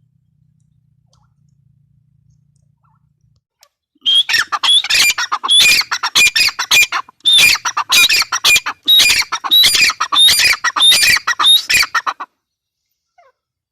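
Gray francolin calling: after a few seconds of quiet, a loud, harsh series of rapidly repeated calls runs for about eight seconds and then stops abruptly.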